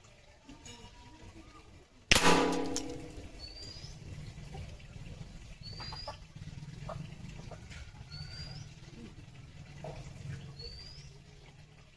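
One PCP air rifle shot about two seconds in, a sharp crack with a ringing tail. A bird repeats a short rising chirp about every second and a half.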